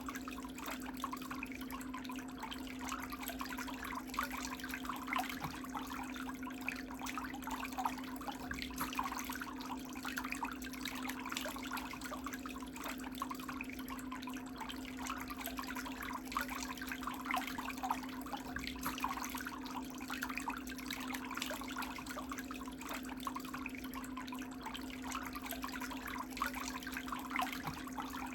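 Water bubbling and trickling steadily in a pedicure foot bath, over a constant low motor hum.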